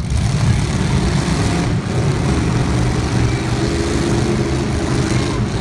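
Race car engines running steadily, a continuous low engine drone with no clear revving.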